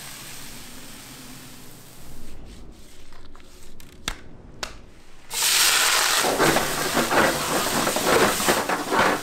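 A few light clicks and knocks, then from about five seconds in a loud, crackling sizzle, like food hitting a hot griddle or frying oil in a burger-shop kitchen.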